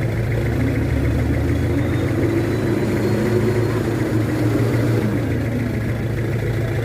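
Diesel engine of a Mitsubishi Fuso HD truck running steadily, with a low, even drone.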